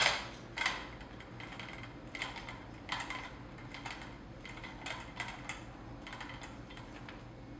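Budget metal light stand being handled: scattered light metallic clicks and knocks, with a sharper clack right at the start.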